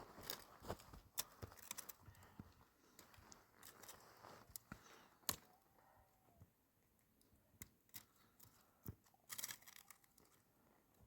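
Near silence, broken by scattered faint clicks and brief rustling scrapes.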